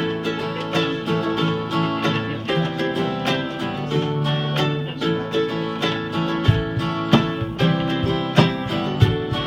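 Live acoustic band playing an instrumental intro in a country style: strummed acoustic guitar chords over a bass line. A drum comes in with low thuds about two-thirds of the way through.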